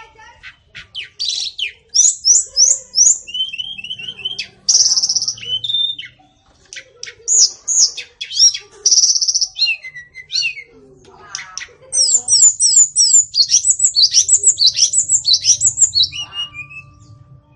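White-rumped shama singing a varied, loud song: clear whistled phrases, short runs of repeated notes and quick series of down-slurred notes, broken by brief pauses between phrases. It ends with a long fast series of falling notes.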